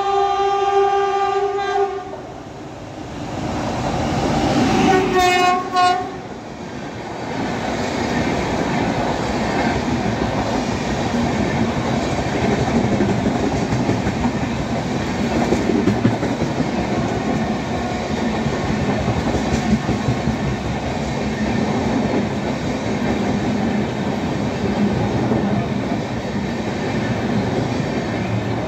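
Indian Railways locomotive horn: a long blast that ends about two seconds in, then a short double blast around five seconds in. After that, the steady rumble and wheel clatter of an express train's coaches running through the station at speed.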